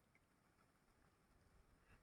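Near silence: faint background hiss with a soft tick or two.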